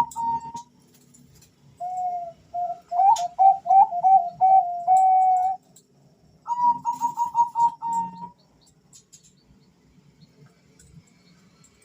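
Two male zebra doves (Bangkok perkutut) cooing in turn. A higher voice's quick stuttering call sounds at the start and again about six and a half seconds in. Between them, a lower voice answers with a run of short notes ending in a held note.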